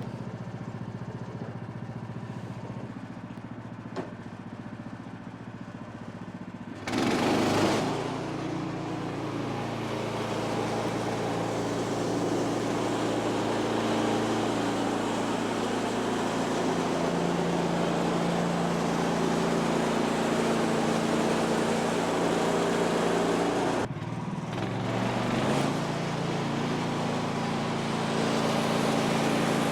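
A Woodland Mills HM126 bandsaw mill's gas engine runs steadily, then comes up loud about seven seconds in as the band blade cuts through a cedar log, with a dense rushing saw noise over the engine. The sound dips briefly near the end and then carries on.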